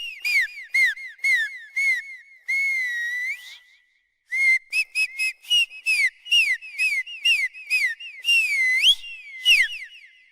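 Rapid run of short, high-pitched squeaks, several a second, most of them falling in pitch. About two and a half seconds in comes one longer drawn-out squeak, then a short silence before the quick squeaks resume.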